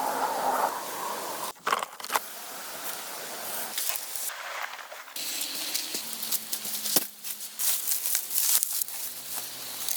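Crackling and rustling noise with many small clicks, broken by several abrupt cuts.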